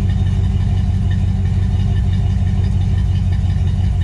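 Chevrolet C10 squarebody pickup's engine idling, a steady loud low rumble with no revving.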